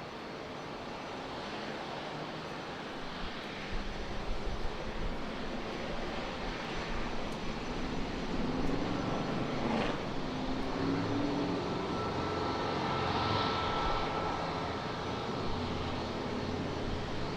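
Jet airliner passing close on its landing approach to runway 27, the engine noise building and its pitch dropping as it goes by about ten seconds in.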